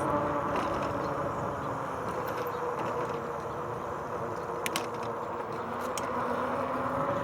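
Rad Power Bikes RadRover 5 fat-tire e-bike riding along a trail: a steady rolling rumble with a faint steady whine, and two light clicks, one about four and a half seconds in and one about six seconds in.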